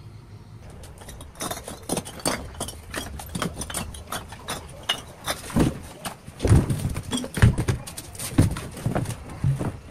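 Irregular series of knocks and clatters starting about a second in, with a few heavier thuds in the middle.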